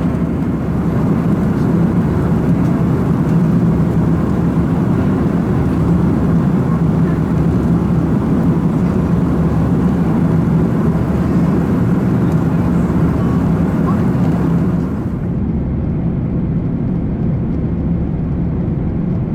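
Steady cabin drone of an Airbus A340-300 in cruise: the rush of airflow and the hum of its four CFM56 engines. About fifteen seconds in, the sound turns duller as its higher hiss drops away.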